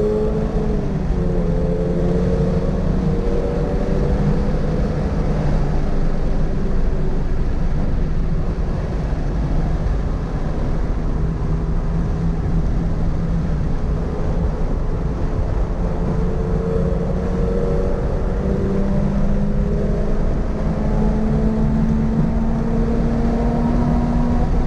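Toyota GR86's 2.4-litre flat-four engine running hard on track over tyre and road noise. Its pitch drops about a second in, holds fairly level, then rises slowly through the last several seconds.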